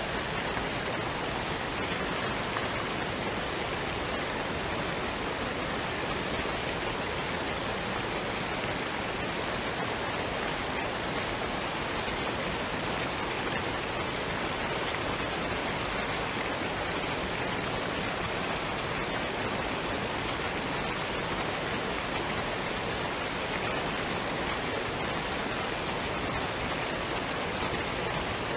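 Waterfall and stream water running, a steady, even rushing noise with no breaks or changes.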